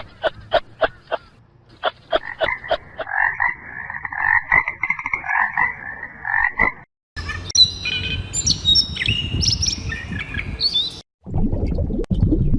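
Frogs croaking: a row of sharp croaks about four a second, then a dense chorus. About seven seconds in it cuts to birdsong with whistled notes sliding up and down, and near the end to a low, noisy rumble.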